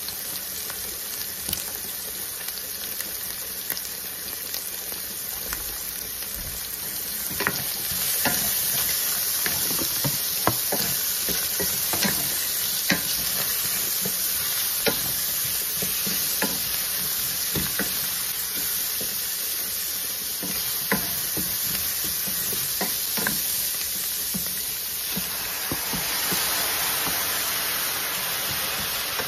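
Chorizo slices and vegetables sizzling in a stainless steel frying pan, with a wooden spoon stirring and knocking against the pan from about seven seconds in. Near the end the hiss grows louder and brighter as napa cabbage goes in and steams.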